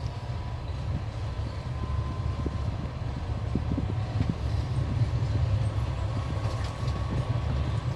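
Passenger train running along the track, heard from aboard: a steady low rumble of wheels on rails with scattered faint knocks.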